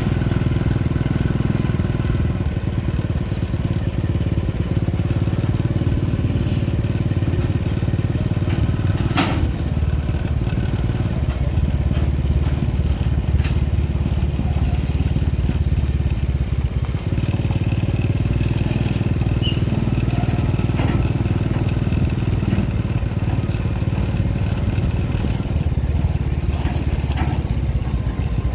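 Scania truck's diesel engine running steadily, a continuous low rumble that holds level throughout, with a sharp click about nine seconds in.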